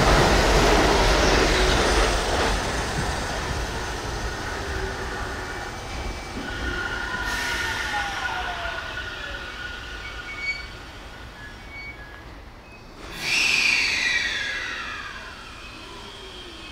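JR Central 313 series electric train on the rails: loud running noise that fades away, then a high squeal with steady tones and one tone gliding down in pitch as the train slows. About 13 seconds in there is a sharp cut to another 313 series train, loud at once, with several tones falling in pitch.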